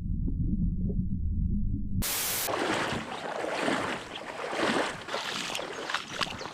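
Muffled, dull water sound for about two seconds, then a sudden splash and rushing, splashing river water.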